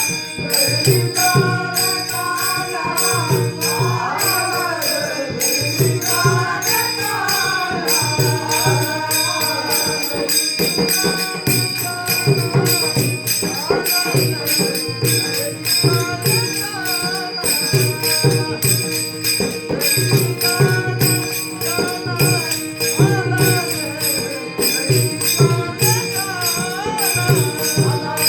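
Marathi Varkari bhajan: a lead singer's voice gliding through long melodic phrases over a steady beat of small hand cymbals (taal) and a drum, with a held drone underneath.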